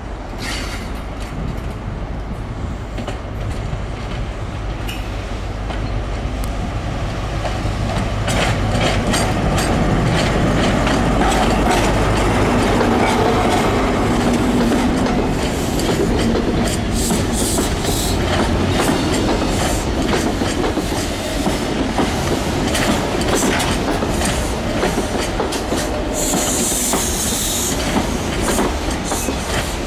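Network Rail New Measurement Train (HST) passing. The leading Class 43 power car's diesel engine hums steadily at first, then the coaches' wheels click over points and rail joints. A brief high wheel squeal comes near the end.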